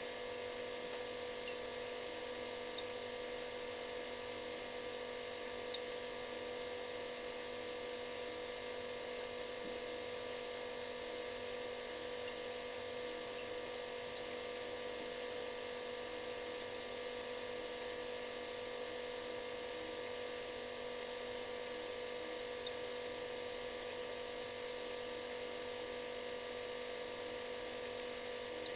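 Refrigerator running with a steady electric buzz, one strong tone with several fainter ones above it over a light hiss, unchanging throughout.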